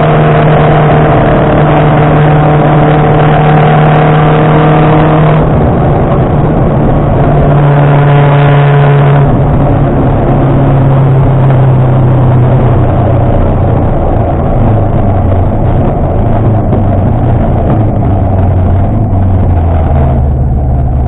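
Rally car's engine, loud from inside the cabin, running hard at steady revs. About five seconds in the pitch dips and climbs again, and through the second half it drops in steps to a lower, steadier run.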